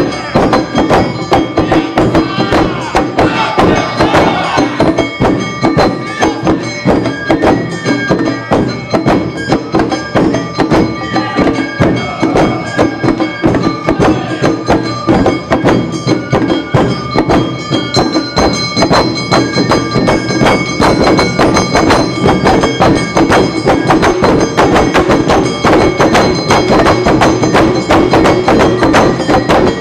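Awa Odori festival band playing: drums and a clanging hand gong beating out a fast, driving rhythm under sustained melody instruments. The music stops right at the end.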